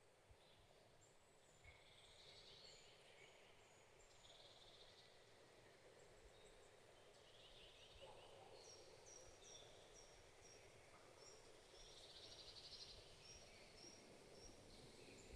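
Faint forest birdsong from several birds over a soft steady background hiss. Several short buzzy trills come throughout, and a run of short, evenly spaced high notes repeats through the second half.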